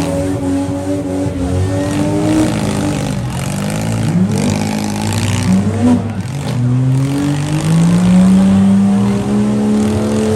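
Several demolition-derby vans and trucks with their engines revving hard, the pitch rising and falling as they accelerate and back off, with one engine climbing and holding high near the end.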